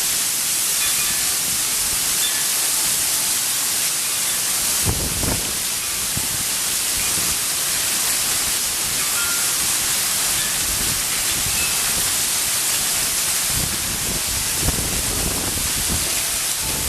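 Heavy rain and small hail pouring down in a steady loud hiss during a thunderstorm, with low rumbles swelling up about five seconds in and again near the end.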